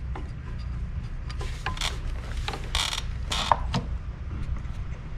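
Bolts on a twin disc clutch assembly being tightened with a wrench: several short bursts of metallic ratcheting between about one and a half and four seconds in, over a steady low hum.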